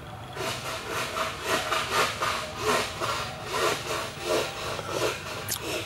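Close-up eating sounds: rhythmic chewing of cooked snail meat, about three chews a second, with a sharp click near the end.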